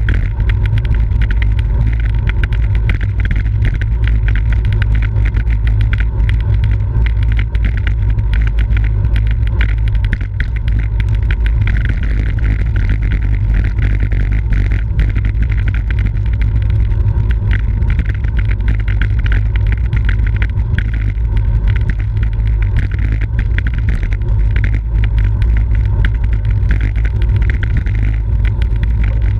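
Loud, steady wind buffeting the microphone of a camera riding along in a bicycle race, with road noise mixed in.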